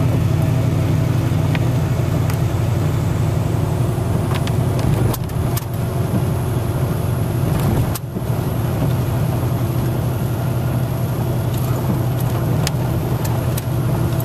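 Road noise inside a moving vehicle on a wet road: a steady low engine and tyre hum with a hiss over it, and a few faint clicks.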